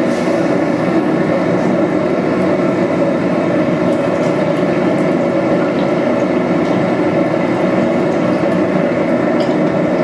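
Steady, even roar of a blacksmith's forge running while steel is heated for hardening.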